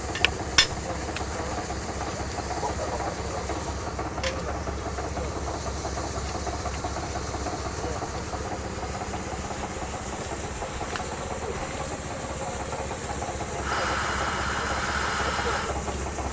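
An engine-driven machine running steadily with a low drone and hiss. There are two sharp clicks about half a second in, another about four seconds in, and a louder hiss for about two seconds near the end.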